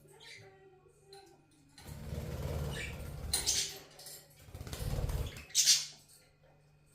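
Pet budgies bathing: two bouts of wing-fluttering and splashing in water, each lasting a second or two, with fainter small sounds between them.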